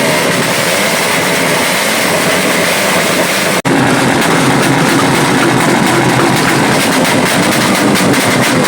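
Loud, steady vehicle engine noise. It cuts out for an instant about three and a half seconds in, then carries on with a slightly deeper tone.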